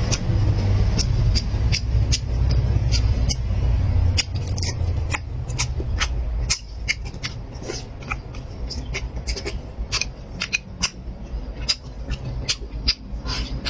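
Close-miked eating sounds: chewing with many short, sharp mouth clicks and smacks at irregular spacing. A low rumble underneath drops away about halfway through.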